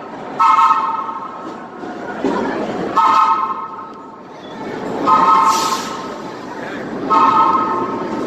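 Subway train horn sounding four short chord-like blasts, about two seconds apart, over the rumble of the train.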